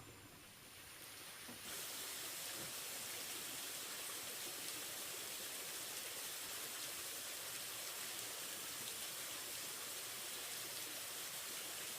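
Steady hiss of falling rain, starting abruptly about two seconds in.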